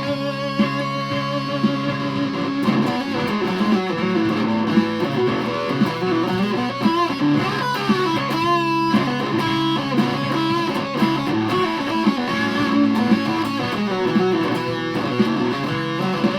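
Aria Pro II Thor Sound electric guitar played through a fuzz pedal, with sustained notes and chords picked without a break.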